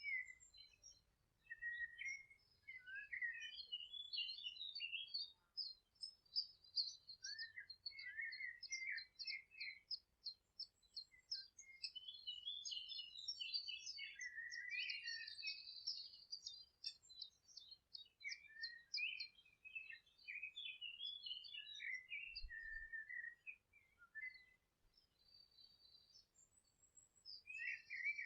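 Several songbirds singing at once: fast runs of high repeated notes over lower warbling phrases, easing into a brief lull about three quarters of the way through.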